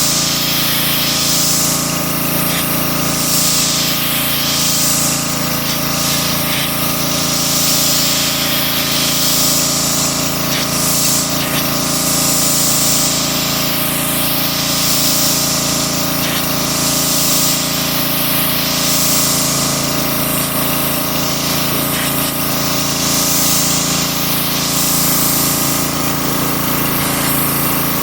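Pressure washer running steadily: a motor hum under a loud hissing water spray whose tone keeps shifting as the jet is swept back and forth.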